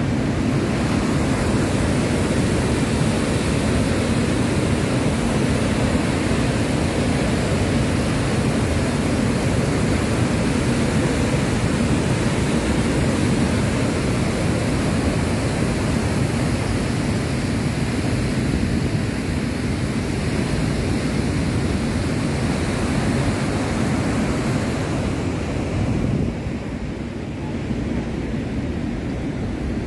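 Steady rush of road and wind noise in a moving vehicle, easing slightly near the end.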